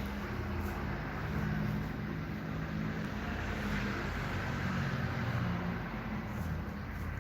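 Steady low mechanical hum and rumble with a hiss over it.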